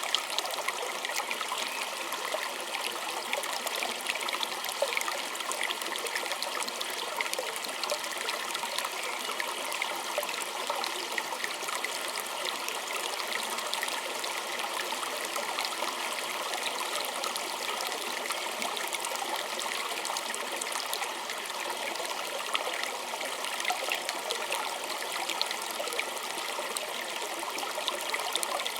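Small stream trickling and babbling steadily over stones, with many fine splashes and drips.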